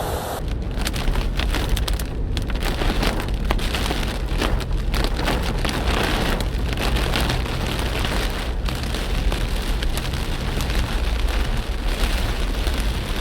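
Heavy rain pouring down, with many individual drops striking close by over a steady hiss and a low hum underneath.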